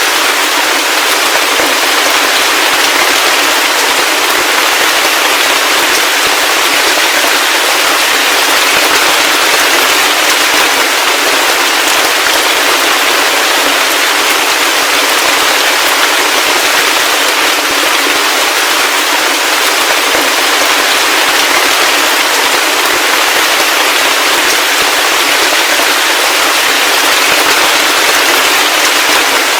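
Heavy rain falling steadily: a dense, even patter of countless small drop impacts, with no low rumble underneath.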